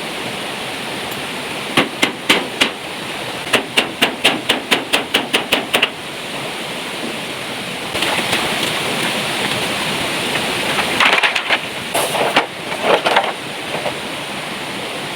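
Heavy rain pouring down steadily. A few sharp knocks about two seconds in, then a quick run of about a dozen knocks at about five a second, and more irregular knocks near the end.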